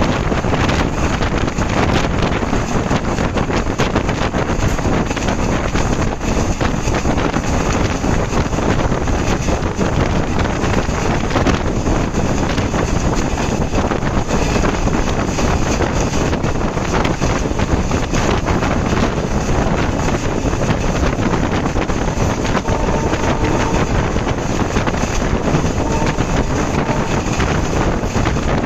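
Steady rushing noise of a moving passenger train, with wind blowing hard on the microphone.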